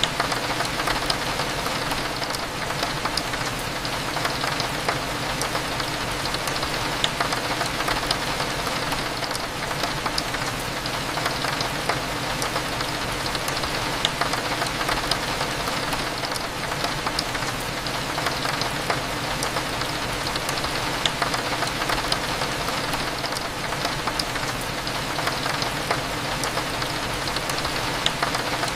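Steady rain pattering against a window, many small drops ticking, over a low, even background hum.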